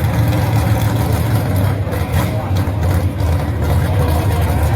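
Gasser drag car engine running with a loud, steady, deep rumble.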